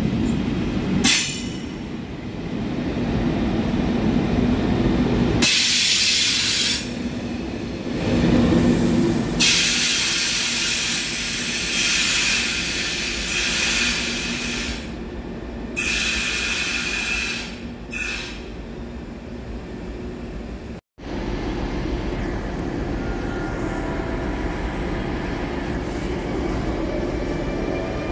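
Electric passenger trains moving through a station: a Railjet running along the platform, then a train rolling in with a high-pitched squeal at times. After a sudden cut about three-quarters of the way in, a steady rumble with a faint whine as an alex train behind a class 183 electric locomotive draws in.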